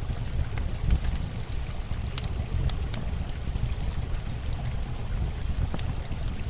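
Campfire crackling, with irregular sharp pops and snaps, over a steady low rush of running water.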